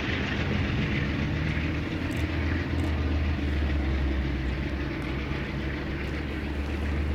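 Amtrak passenger train rolling away on the rails. The hiss of wheels on rail fades over the first second or so, leaving a steady low rumble.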